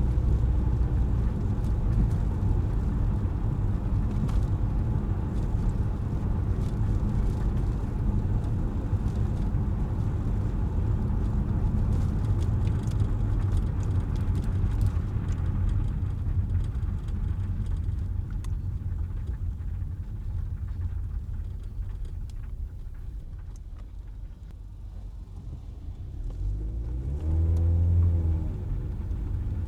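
Car driving through city traffic, a steady low rumble of engine and road noise that eases off for a few seconds. Near the end an engine revs up and back down once, the loudest moment.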